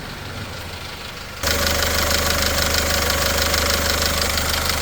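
SsangYong diesel engine idling with a steady clatter. About a second and a half in, the sound abruptly gets much louder, and a fast, even rattle runs on over the idle from then on.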